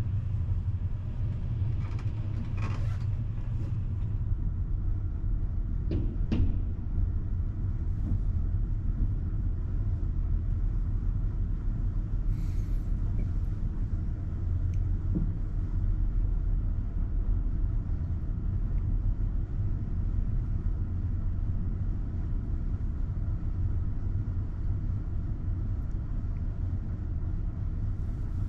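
Steady low rumble of a PKP Intercity Express passenger train running at full speed, heard from inside the carriage, with a few faint clicks in the first several seconds.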